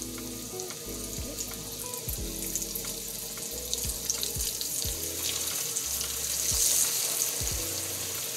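Floured pork steak frying in hot vegetable oil in a skillet, a steady sizzle and crackle that grows louder in the second half as more breaded pork goes into the oil. Background music plays underneath.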